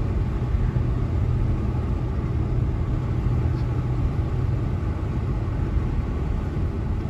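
Steady low rumble inside a Subaru's cabin: the boxer engine running, with the heater blowing at high, as the car creeps out of the car wash.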